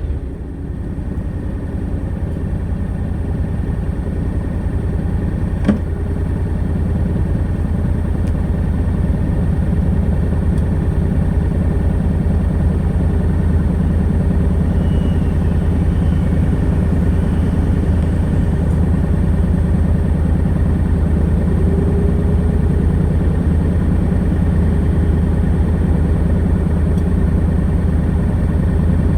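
Honda NC700X's 670 cc parallel-twin engine running steadily through its stock exhaust. Its sound builds over the first ten seconds or so and then holds even, with one sharp click about six seconds in.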